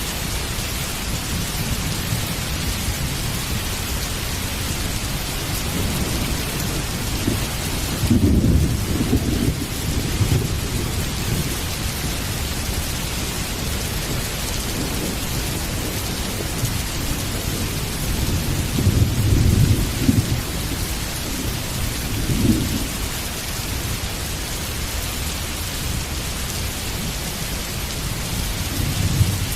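Heavy rain falling steadily, with low rolls of thunder swelling several times, the loudest about eight seconds in and again around nineteen seconds, and shorter ones later.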